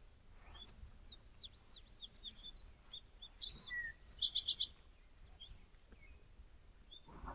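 A songbird singing a busy run of high, quick chirps and short whistled notes, ending about halfway with a fast, louder trill of five or six notes. A short soft rustle comes near the end.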